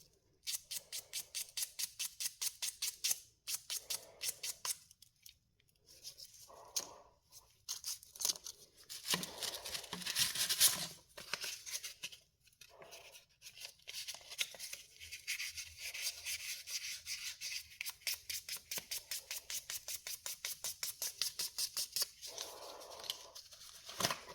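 Sandpaper scratching back and forth by hand over the end of a rosewood pull in quick, even strokes, with a few short pauses, sanding away the nub left by the parting tool.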